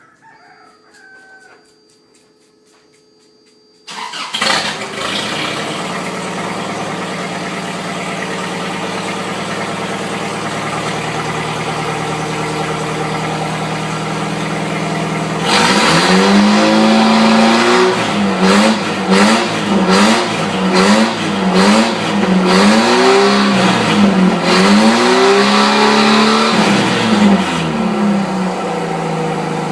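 1995 Toyota truck's engine with a straight-pipe exhaust starting up suddenly after a few quiet seconds and idling loudly. Later it is revved in a series of quick blips for about ten seconds before dropping back to idle.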